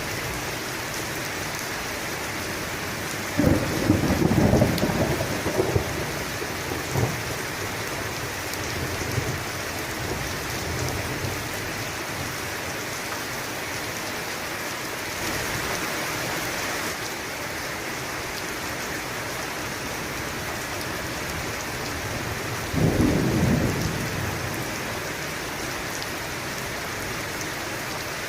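Steady heavy rain falling, with two rolls of thunder: a longer rumble a few seconds in and a shorter one near the end.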